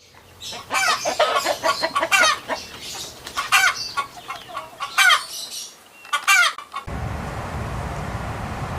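Chickens clucking and cackling in a run of short, rising and falling calls. About seven seconds in the calls stop abruptly and a steady rushing noise takes over.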